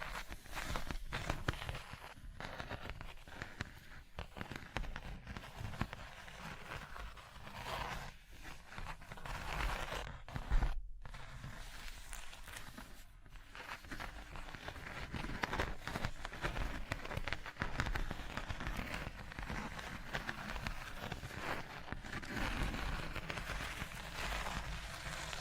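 Close-miked ASMR tapping on objects: many quick, irregular taps and crackles that break off briefly just under halfway through.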